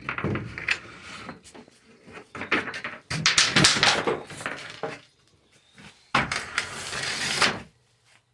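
Knocks, scrapes and rustles of objects being handled and moved about, in three bursts.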